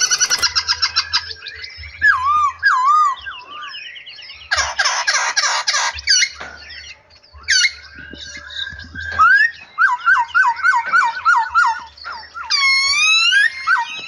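Several songbirds in an aviary singing and calling together: repeated whistled notes at the start, wavering whistles, a dense chattering burst about five seconds in, and a run of quick rising whistles in the second half.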